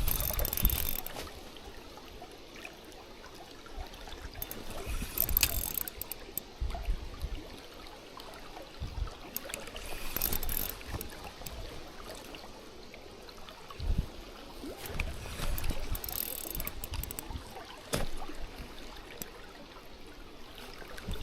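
Wind buffeting the microphone in irregular gusts over the steady rush of shallow river water.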